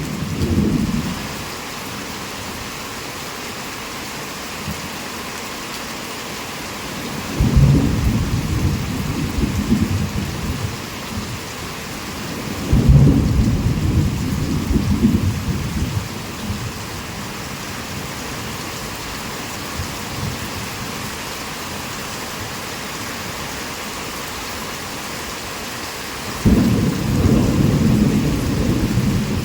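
Heavy, steady rain with rolling thunder. A rumble fades out right at the start, and fresh rolls of thunder come about a quarter of the way in, again near the middle, and once more near the end, each lasting a few seconds.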